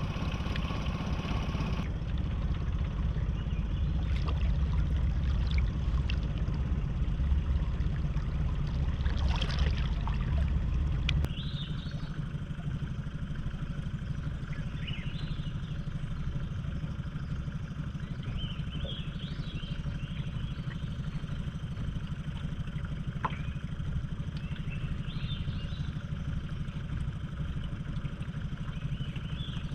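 Small boat's outboard motor running steadily at trolling speed, a low drone that drops to a quieter level about a third of the way through. A few faint high chirps come over it in the second half.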